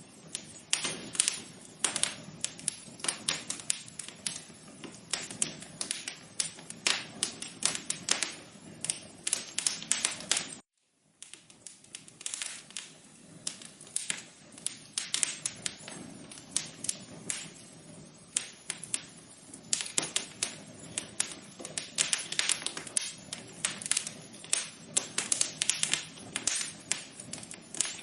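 Wood fire crackling in a fireplace: a steady run of irregular sharp pops and snaps over a low hiss, cutting out completely for about half a second roughly ten seconds in.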